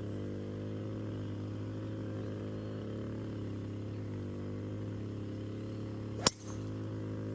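Golf cart's motor running with a steady, pitched hum that shifts slightly in pitch now and then, and one sharp click a little past six seconds in.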